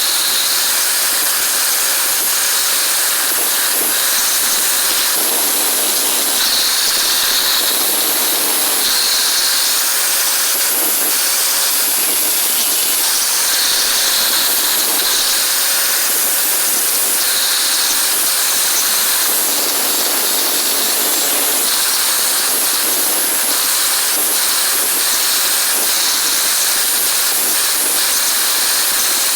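A loud, steady hiss with a faint steady whine beneath it, typical of air-driven or power-tool work.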